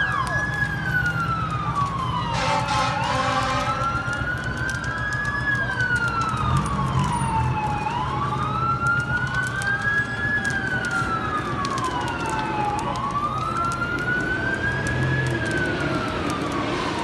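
Emergency-vehicle siren in a slow wail, rising and falling about every five seconds, with a second fainter siren overlapping it, over the steady rumble of idling engines. A brief harsh blast sounds about two seconds in.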